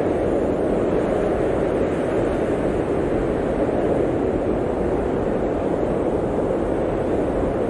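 Blizzard wind blowing steadily, a dense, even rushing without gusts or breaks.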